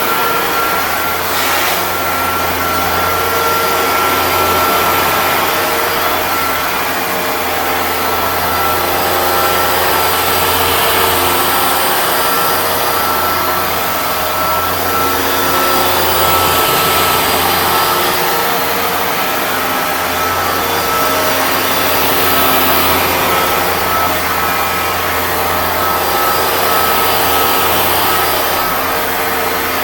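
Hoover Dual Power Max Pro carpet cleaner running: a loud, steady motor whine with one high, even tone, its loudness easing and swelling slightly every few seconds.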